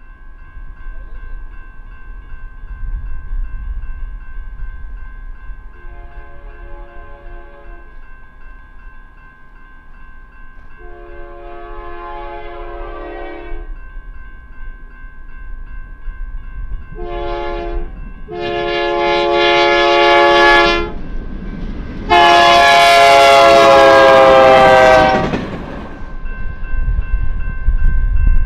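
A freight train's diesel locomotive sounds its multi-chime air horn in the grade-crossing pattern: long, long, short, then a final long blast. The blasts grow louder as the train nears, and the last, loudest blast drops in pitch as the locomotive passes. A low train rumble underlies the horn.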